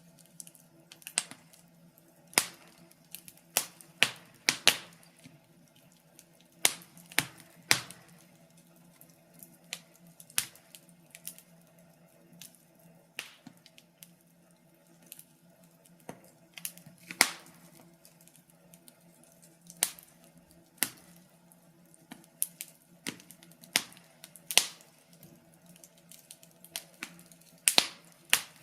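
Burning firewood crackling in a fireplace: irregular sharp pops and snaps, a few each second, with louder ones every second or two over a faint low hum.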